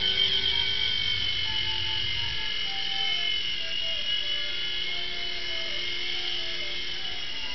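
Small toy RC helicopter's electric motor and rotor running at full speed, a steady high-pitched whine that wavers slightly in pitch, having just spun up for takeoff.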